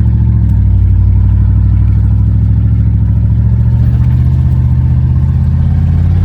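Pickup truck engine running loud and low through open headers with no muffler, a steady fast exhaust pulse as the truck drives across a field toward a jump.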